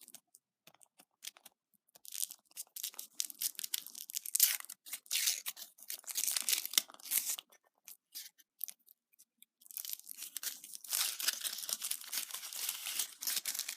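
Wrapper of a surprise egg being crinkled, torn and peeled off by hand. It comes in bursts after a couple of nearly quiet seconds, pauses briefly past the middle, then crinkles on steadily to the end.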